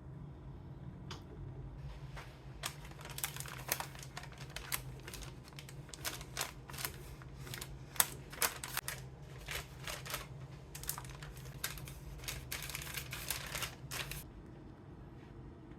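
Irregular light clicks and taps, several a second, that start a couple of seconds in and stop near the end, over a steady low hum.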